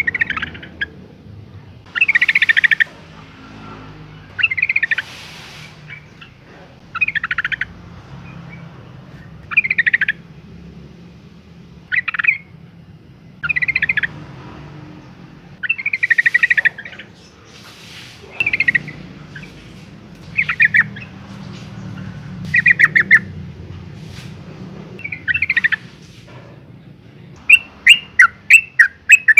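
Yellow-vented bulbul, a female's call, repeating short bubbly chattering phrases about every two seconds. Near the end it breaks into a fast run of sharp notes, about four a second.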